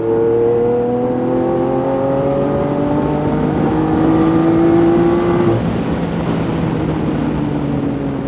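Lamborghini Aventador's 6.5-litre V12 accelerating hard, its pitch climbing steadily. About five and a half seconds in the pitch drops and the engine runs on lower.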